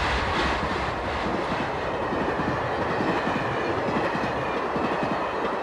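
Passenger train passing close by at speed: a steady rush of its wheels running on the rails.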